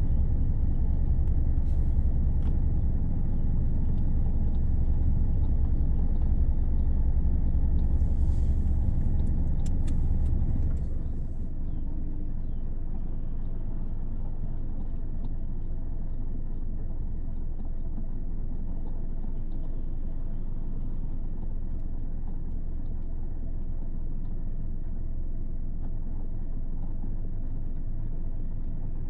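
2016 Hyundai Elantra running with a steady low rumble and hum, the odd noise heard from the front vents or under the hood. About ten seconds in it drops to a quieter level and carries on steadily.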